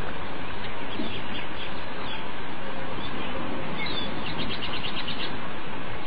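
Small bird chirping over a steady rushing hiss, with a few scattered high chirps and then a fast run of about nine chirps near the end.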